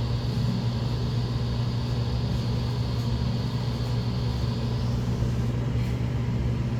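Brand-new TEMPO 230 V ceiling exhaust fan running steadily: a strong low motor hum with a rush of air over it.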